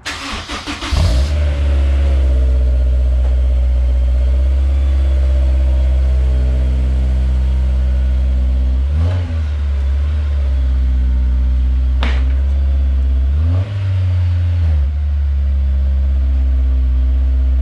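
Honda S2000's four-cylinder engine cold-started through a freshly fitted J's Racing 60RS dual titanium exhaust: the starter cranks briefly and the engine catches about a second in, then settles into a steady idle. The engine note rises slightly twice, and there is a sharp click about twelve seconds in.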